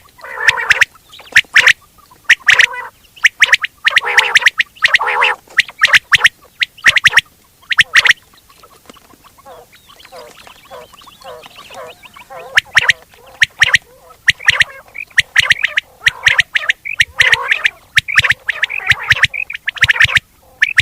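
Quail calling: rapid series of short, sharp notes repeated in clusters, with a softer, quieter run of chattering from about 8 to 12 seconds in before the sharp calls resume.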